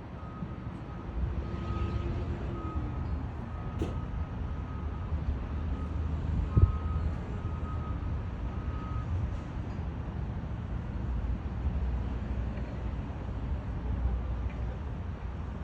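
Steady low vehicle rumble, with an electronic beep at one pitch repeating in short dashes for the first nine seconds or so, like a truck's reversing alarm.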